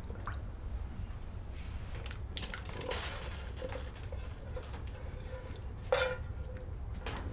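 Clinks and knocks of metal cookware being handled, with two louder knocks about three and six seconds in that ring briefly. A steady low rumble lies underneath.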